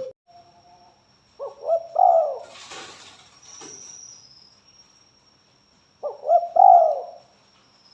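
Spotted dove (tekukur) cooing: two short phrases of bent, rolling notes, one about a second and a half in and another about six seconds in.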